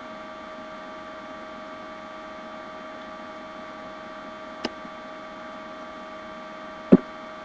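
Steady electrical hum and hiss, with a constant whine around the middle of the range. A single sharp click about four and a half seconds in, and another short tap near seven seconds.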